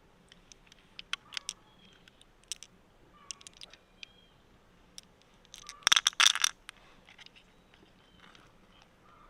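Scattered sharp clicks and scrapes of hard objects knocking together, with a dense rattle of clicks about six seconds in.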